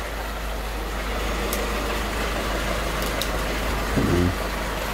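Toyota 4K inline-four petrol engine idling steadily, running on its own again after sitting unused for almost three years.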